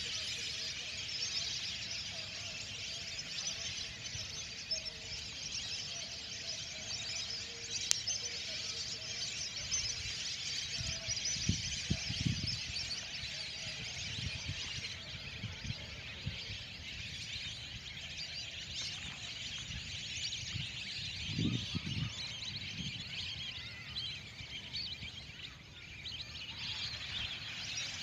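A dense, continuous chorus of high whistling calls from a large flock of whistling ducks, with a few dull low thumps on the microphone, around a third and three quarters of the way through.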